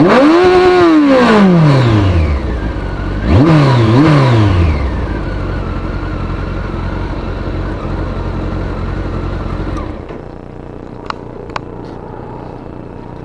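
Kawasaki ZZR1400's inline-four engine with a Yoshimura aftermarket exhaust: a rev falls back, two quick throttle blips follow, and it settles to a steady idle. About ten seconds in the engine stops, and two sharp clicks follow.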